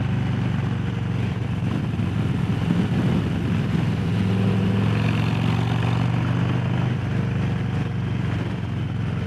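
Harley-Davidson Low Rider S's Milwaukee-Eight V-twin engine running steadily, with a small shift in pitch about four seconds in.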